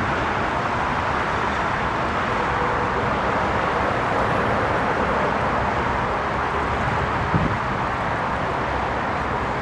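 Steady roar of a McDonnell Douglas MD-11F's General Electric CF6 turbofan engines, with a short thump about seven seconds in.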